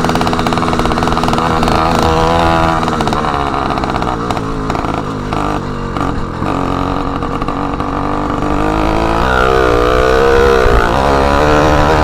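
Motorized bicycle's small engine running loud through an exhaust with its end tip removed. It drops off in the middle with a choppy, uneven note, then revs up and down again over the last few seconds.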